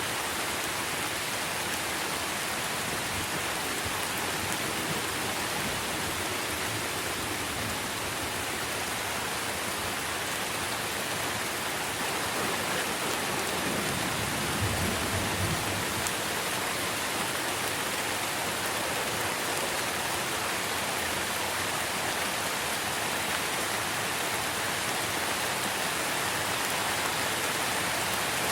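Steady rain falling on tree foliage: an even hiss with no letup, and a brief low rumble about halfway through.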